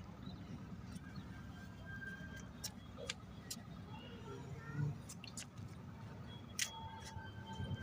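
Faint background hum with a few small scattered clicks, a soft thump about five seconds in and a sharper click a little later.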